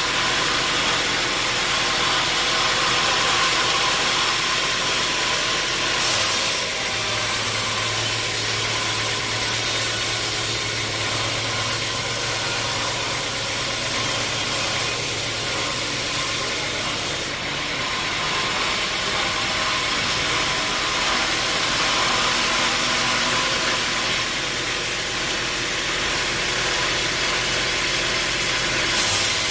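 Sawmill machinery running steadily with a loud, even noise. A deeper hum joins about six seconds in and stops near the end.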